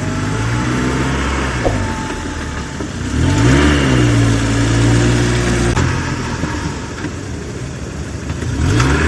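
A vehicle engine running with a steady hum, revving up and back down about three seconds in, then settling, with another rev starting near the end.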